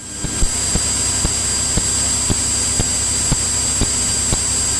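Cockpit noise of a Cirrus single-engine piston plane in cruise, picked up through the intercom: a steady engine and airflow rush with a high whine, swelling up as the radio falls silent, with faint ticks about twice a second.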